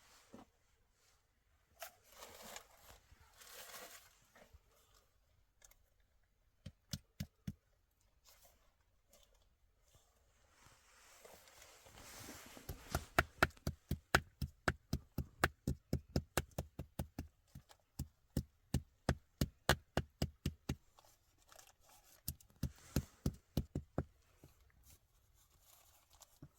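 Rapid, evenly spaced knocking strikes, about four a second, in runs broken by short pauses, after a few soft rustling sounds.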